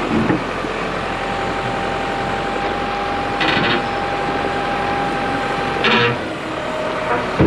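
Heavy diesel truck engine running steadily, with a steady whine and two short hisses of air, about halfway through and near the end, typical of air brakes.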